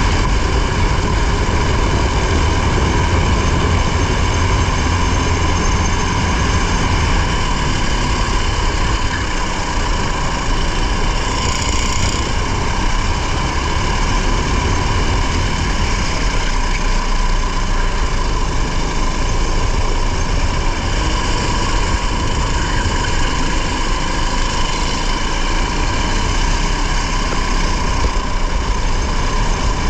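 A race vehicle's engine running steadily, heard from on board, with a continuous rushing noise around it.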